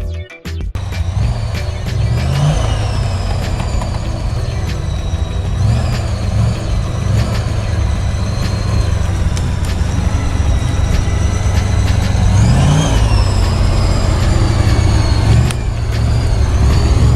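Heavy truck engine running hard, revving up several times with a high whine rising and falling along with the revs. A moment of music cuts off about half a second in.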